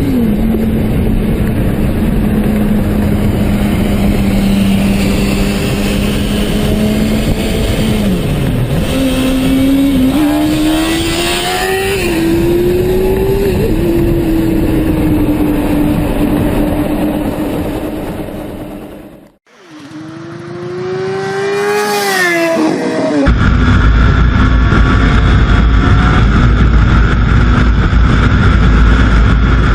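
Sport motorcycle engine running and revving, its pitch climbing and dropping several times. It cuts out abruptly a little past the middle, comes back with a rising rev, then settles into a steady low rumble with wind noise.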